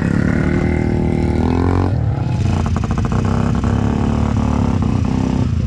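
ATV engine running under way, its pitch rising briefly about one and a half seconds in as it revs, with a quick rattle of clicks around three seconds in.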